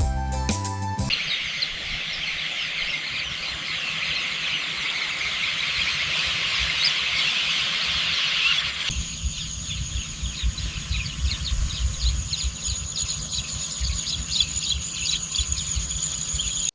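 A dense, high-pitched outdoor chorus of many fast chirps and trills from small animals, after the last second of background music. About halfway through it changes abruptly to a different chorus, with a steady high whine on top and a low rumble beneath.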